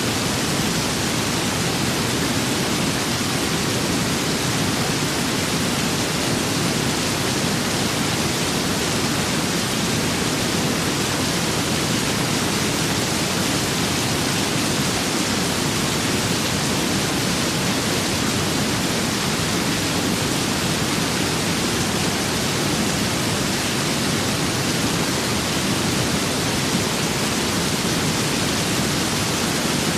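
Rain and wind as a steady, even hiss, with no single drops, gusts or other events standing out.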